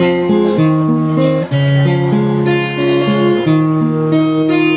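Acoustic guitar playing a song's instrumental outro, its notes picked one after another and left ringing.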